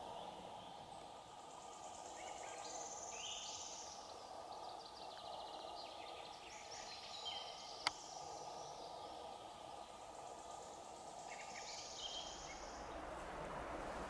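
Forest birds singing: several short, high phrases of rapidly repeated notes over a faint steady background noise, with one sharp click near the middle.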